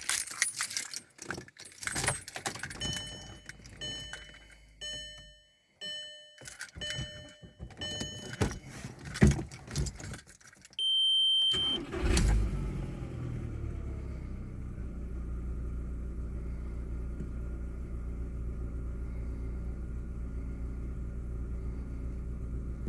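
Keys jangling and clicking in the ignition, with a string of short car warning beeps and then one longer beep. About halfway through, the Škoda Fabia's 2.0 8-valve four-cylinder petrol engine cranks and catches on a cold start, then settles into a steady idle.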